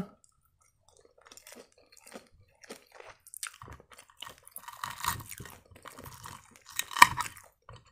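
Chewing a bite of fried fish pastry (a Russian fish triangle), with scattered short crackles. From about halfway, a fork cuts through the pastry's fried crust against the plate, giving denser crackling and one sharp click near the end.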